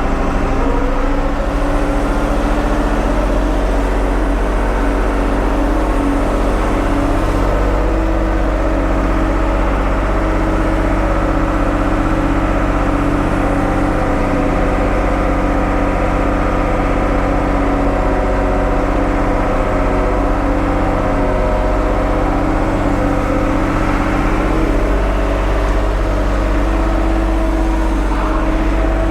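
Ford 550 backhoe engine running steadily at a constant speed, its pitch drifting only slightly.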